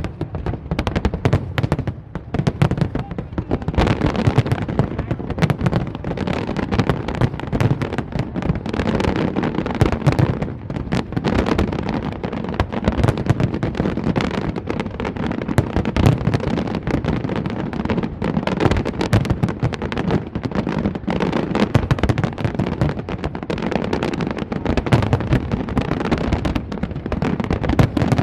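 Aerial fireworks display: a dense, unbroken barrage of bangs and crackling bursts.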